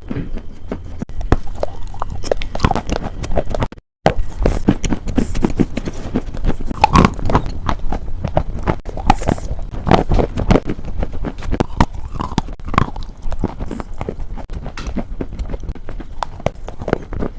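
Close-miked ASMR crunching: a dense run of crisp crunches and crackles, with a brief break in the sound about four seconds in.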